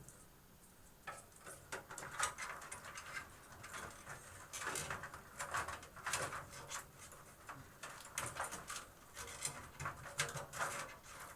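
Power cables being handled and pushed into place inside a computer case: irregular rustling, scraping and light clicks throughout.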